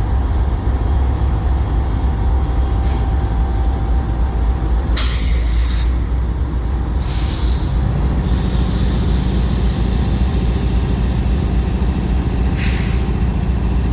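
Diesel locomotive engines idling with a steady low rumble. Compressed air blows off in short hisses three times: about five seconds in, again about two seconds later, and briefly near the end.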